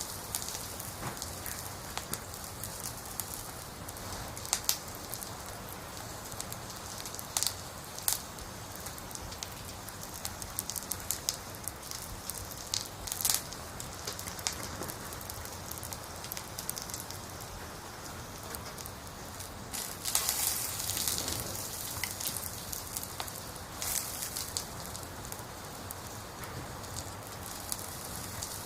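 Wood fire burning: a steady hiss with scattered sharp crackles and pops from the logs, and a louder burst of hissing crackle about twenty seconds in.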